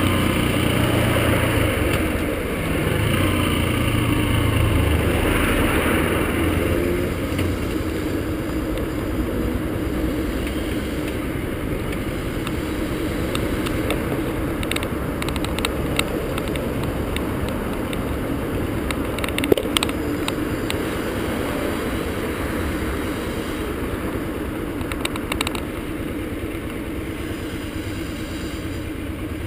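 Yamaha XTZ125 motorcycle's single-cylinder four-stroke engine running on the road, louder for the first six seconds or so, then settling into a steadier, lower running. A sharp click comes about two-thirds of the way through.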